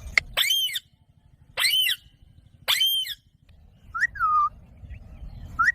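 Ringneck parrot calling: three short, shrill calls about a second apart, then two brief whistled notes that drop in pitch near the end.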